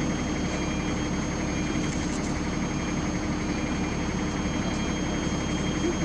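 Heavy diesel engine running steadily with an even low rumble.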